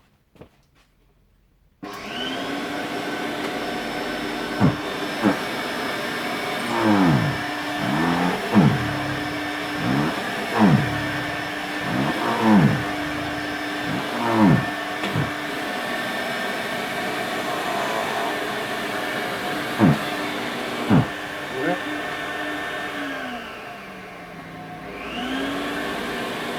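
An Electrolux Z561 Twin Turbo Electronic Deluxe vacuum cleaner switches on about two seconds in and runs with a steady whine. Its pitch dips and recovers in quick swoops several times, with a few sharp clicks between them. Near the end it slows, then picks back up.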